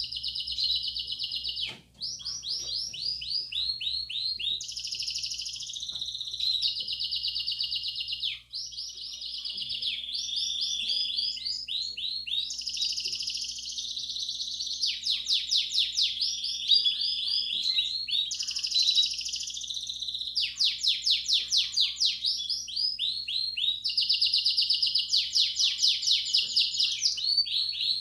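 Belgian canary singing a continuous song of rapid trills and rolls that change every second or two, with two brief breaks early on. It is the 'campainha' (bell-like) song style played to stimulate young canaries to sing.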